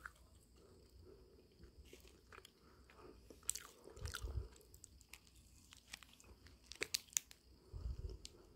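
Close-up mouth sounds of eating a yakgwa, a Korean honey-fried cookie with a crisp outer crust and a chewy inside: quiet chewing broken by several sharp crunches, in two clusters about three and a half seconds in and about seven seconds in.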